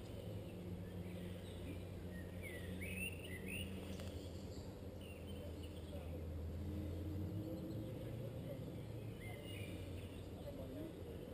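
Birds chirping: a quick run of rising and falling chirps about two to three seconds in and a few fainter ones near the end, over a steady low hum.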